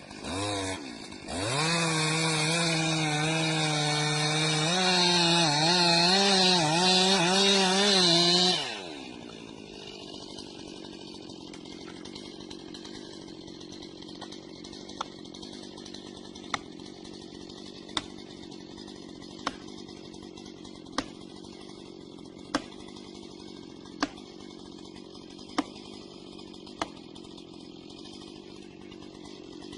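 Chainsaw revving at full throttle for about seven seconds, its pitch wavering, then dropping back to a steady idle. Sharp clicks come about every second and a half during the idle.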